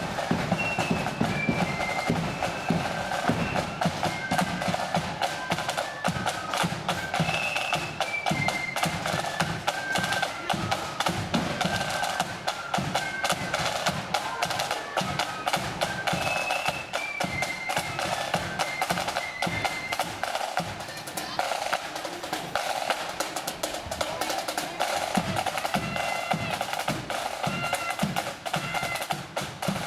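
A marching flute band of the blood-and-thunder kind playing a tune. High flutes carry the melody over rapid, busy snare drumming and regular bass drum beats.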